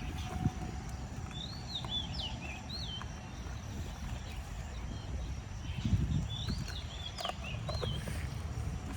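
A songbird sings the same short phrase of quick rising-and-falling whistled notes twice, a few seconds apart, over a low steady rumble of wind on the microphone.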